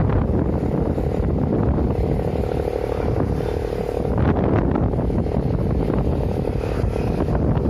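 Strong wind buffeting the microphone in a dense, steady low rumble, with a faint steady hum underneath.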